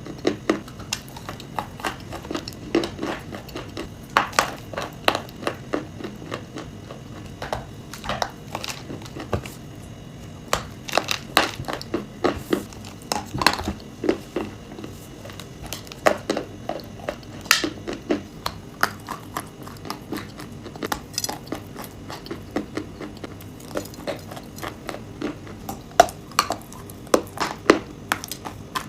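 Pieces of chalk and clay with nuts being bitten and chewed close to the microphone: a continuous run of irregular sharp crunches and crackles.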